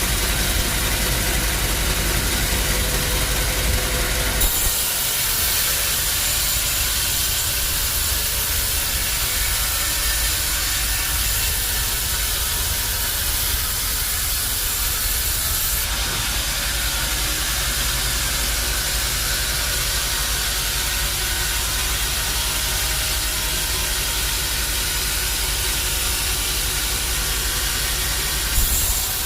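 Bandsaw sawmill running: a steady loud hiss over a low machine hum, which changes in character about four seconds in and again about halfway through.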